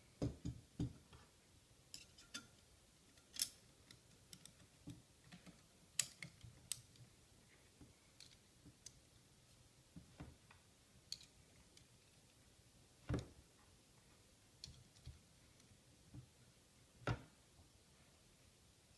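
Scattered light clicks and knocks at irregular intervals, a few sharper ones standing out, against near silence.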